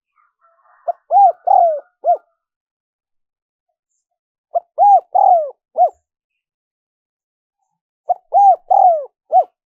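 Spotted dove cooing: three phrases about three and a half seconds apart, each a short run of four or five arched coos.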